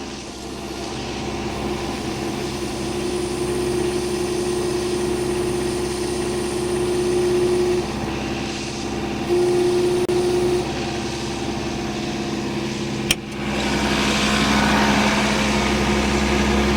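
An engine running steadily under light load. About three-quarters of the way through there is a sharp knock, and after it the running grows louder and rougher.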